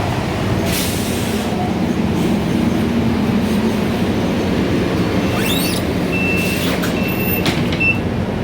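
Scania K320iA CNG city bus running steadily, a continuous low engine hum. In the second half a short high beep sounds several times.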